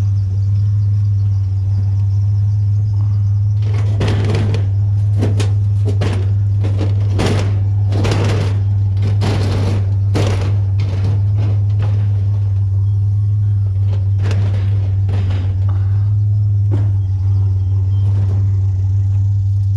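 Truck driving, heard from inside the cab: a loud, steady low drone of engine and road noise, with a run of irregular knocks and rattles through the middle.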